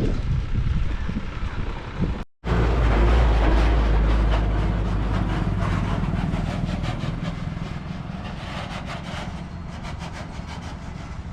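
Wind buffeting the microphone over road noise while riding a heavily loaded bicycle, with bursts of rattling clicks in the second half. The sound cuts out completely for a moment about two seconds in, then the low rumble comes back strong and slowly fades.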